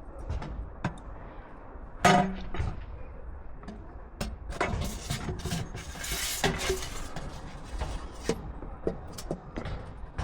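Hand work with tools and materials: scattered knocks and clicks, a loud ringing knock about two seconds in, and a short scrape around six seconds.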